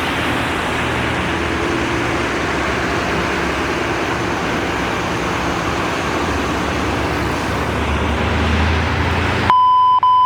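Steady road and traffic noise of vehicles on a slushy road, with a vehicle engine's hum growing louder about eight seconds in. Near the end a steady radio beep tone sounds for about a second.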